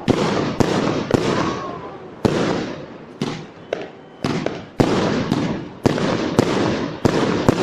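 Fireworks display going off: about a dozen sharp bangs in quick succession, roughly one or two a second with a brief lull midway, over a continuous noisy wash between them.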